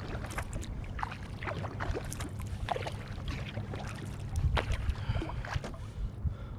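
Kayak paddling: water splashing and dripping off the paddle blades in short irregular spatters, over a steady low rumble.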